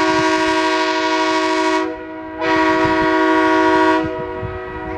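Multi-tone horn sounding two long blasts, a chord of several steady pitches: the first lasts about two seconds, the second about a second and a half after a short break.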